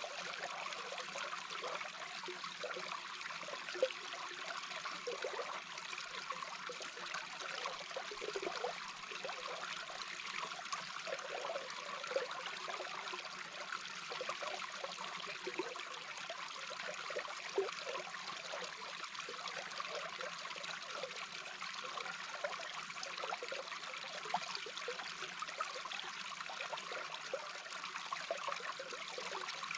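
A small brook's flowing water heard from underwater: a steady rushing hiss with many short low gurgles, and a few sharp pops.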